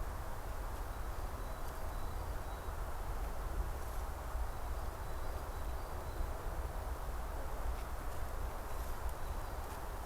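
Steady outdoor background noise in a forest, with a low rumble and a dense hiss. Faint high chirps come through now and then, and there are a few soft ticks.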